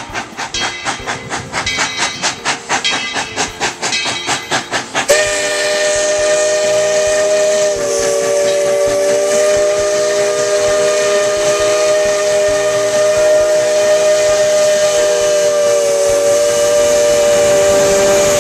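Narrow-gauge steam locomotive working with a quick, even exhaust chuff. About five seconds in its steam whistle opens and is held long and loud, several tones sounding together as a chord, with a slight shift in the tones a few seconds after it starts.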